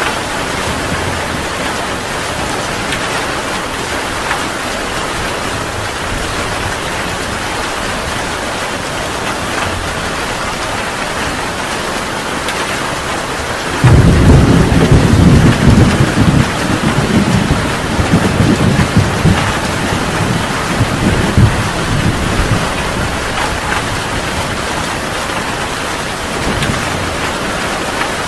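Heavy rain falling steadily. About halfway through, a thunderclap breaks in suddenly as a loud, deep rumble that rolls on unevenly for several seconds and then fades back under the rain.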